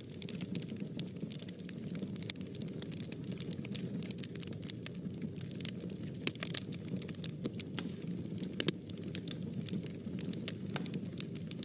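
Wood fire burning in a fireplace, with irregular sharp crackles and pops over a low steady rush of flame.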